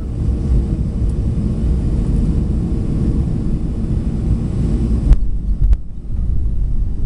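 Cessna 501 Citation business jet's twin turbofan engines at takeoff power, a loud, low rumble with a faint steady tone above it. About five seconds in a sharp click cuts the higher part of the sound away, and a second click follows soon after.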